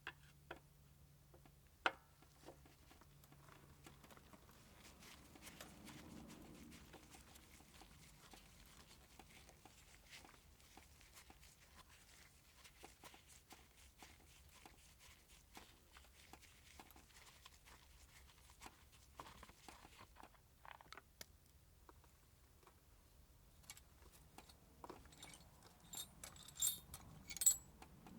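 Faint clicks and light metallic clinks of small parts and tools being handled, with a couple of sharper clicks near the start and a quick cluster of bright clinks near the end.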